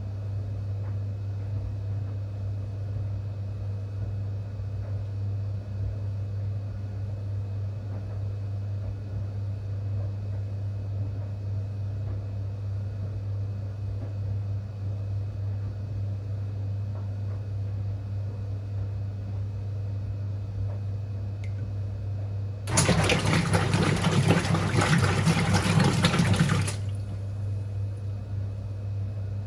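Whirlpool Heavy Duty top-loading washing machine running with a steady low hum. About three-quarters of the way through, water rushes in loudly for about four seconds, then cuts off suddenly.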